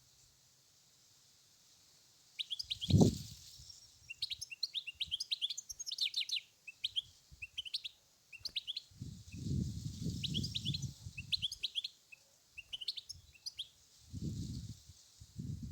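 European goldfinch singing: quick twittering phrases of high tinkling notes that start about two seconds in and come in bursts. Low rumbling bursts sound in between, the loudest a sharp thump about three seconds in.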